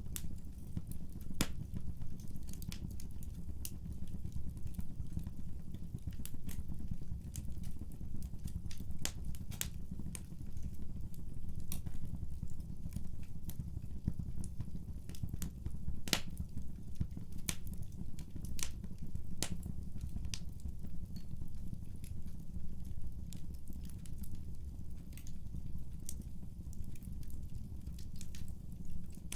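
Wood fire burning, with a steady low rumble of the flames and frequent irregular sharp crackles and pops.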